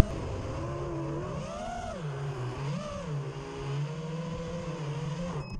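Car engine running while driving. Its pitch rises and falls twice in the first three seconds, then holds fairly steady.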